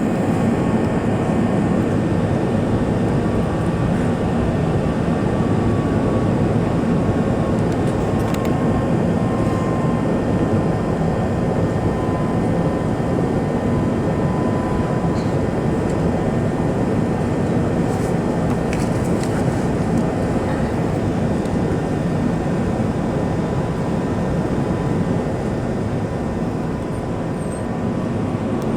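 Steady engine and airflow noise of an Airbus A380-841 airliner in flight, a constant low rush with a faint steady whine and no changes.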